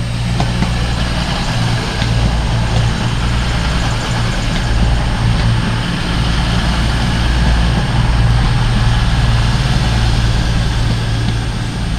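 A train's diesel engine running steadily with a loud, low rumble and a haze of noise above it.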